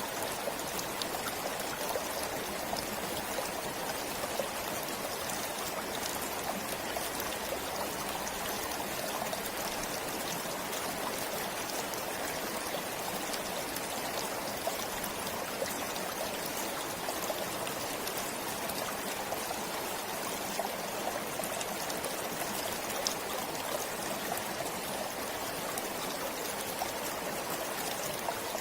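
Forest stream flowing steadily, a continuous rush of water with small scattered splashes and trickles.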